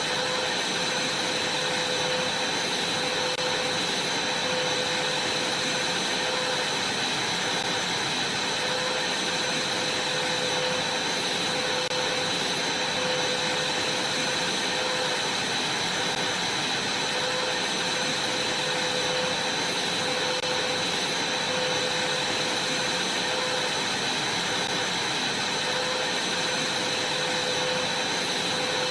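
Vacuum cleaner running steadily on a trampoline mat: a constant rush of air with a steady high whine over it.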